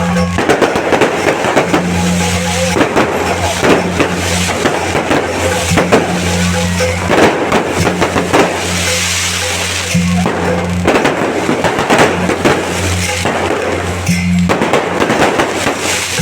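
Firecrackers popping in dense, irregular volleys over procession music and a steady low hum.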